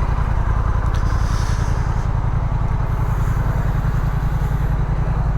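Motorcycle engine idling with a steady, even low pulse.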